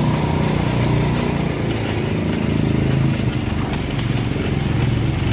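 Small motorcycle engine running steadily under way, its note wavering slightly.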